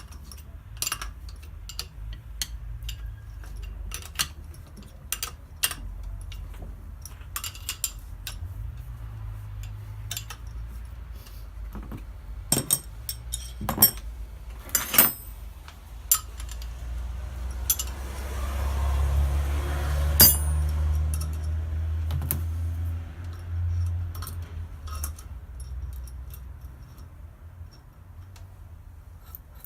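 Small metal parts and tools clinking and clattering as they are handled on a workbench, in scattered sharp knocks. A low rumble swells for several seconds past the middle.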